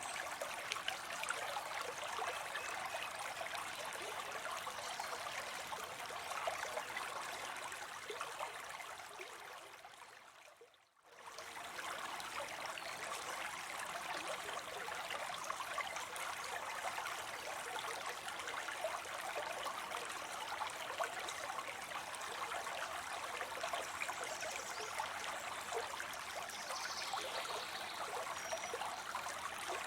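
Water spilling steadily into a pond, a constant splashing rush. A little after ten seconds it fades out to a brief silence and straight back in.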